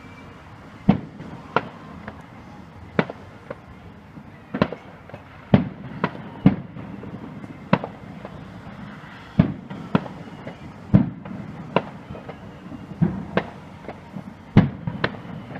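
Fireworks display: shells bursting in an irregular run of sharp bangs, a little more than one a second.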